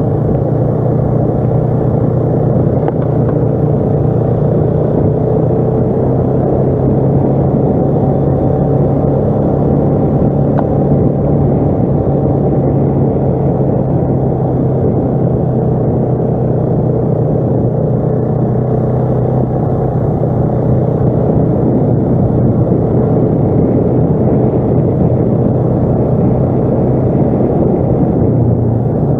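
ATV engine running at a steady pace while under way, a constant low drone with little change.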